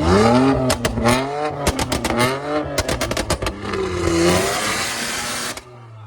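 Car engine being revved in repeated blips, its pitch rising and falling, with sharp cracks in between. A rushing hiss follows and stops abruptly near the end.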